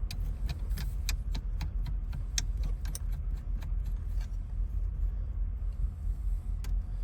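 Small metal parts of a steering column clicking and clinking as they are handled and fitted by hand, in quick irregular ticks, over a steady low rumble.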